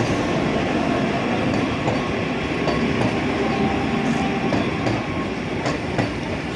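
Vande Bharat Express electric train running on the rails: a steady rumble with irregular clicks of wheels over rail joints.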